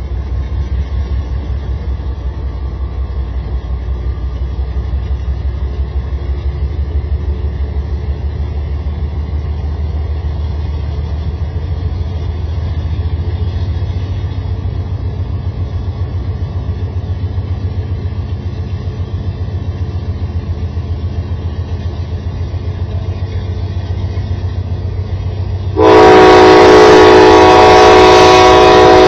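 Several Kansas City Southern diesel locomotives passing close by, a steady, pulsing low rumble of engines and wheels. Near the end a train horn sounds very loud, a chord of several notes held steady, drowning out the rumble.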